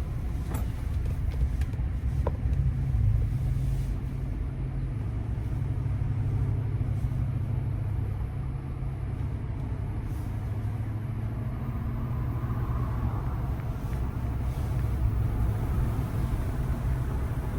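Steady low rumble of a truck driving on a road, engine and tyre noise heard from inside the cab.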